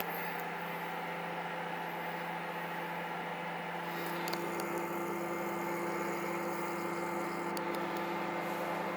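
Microwave oven running while heating a mug of tea: a steady electrical hum, with a second, higher tone joining about four seconds in.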